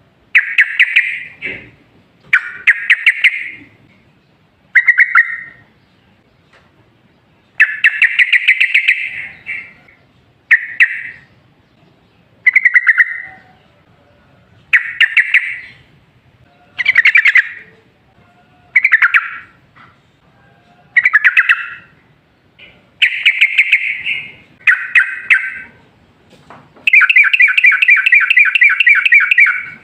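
Yellow-vented bulbul (trucukan) singing: loud, bubbly chattering phrases about a second long, repeated every couple of seconds, then a longer rapid trill near the end.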